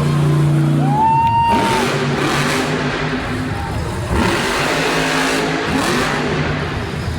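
Loud motor engine running and revving in a stadium, its pitch rising and falling over a broad wash of crowd noise.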